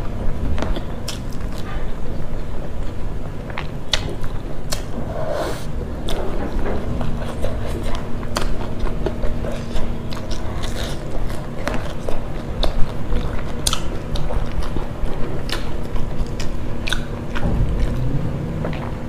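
Close-miked mouth sounds of a person chewing rice and fried fish, with frequent small wet clicks and smacks.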